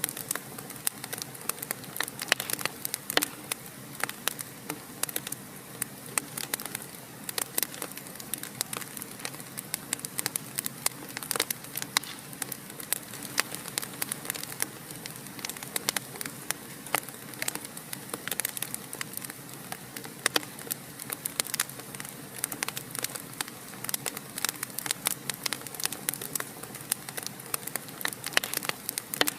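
Fire crackling in a fireplace: dense, irregular snaps and pops over a steady soft hiss.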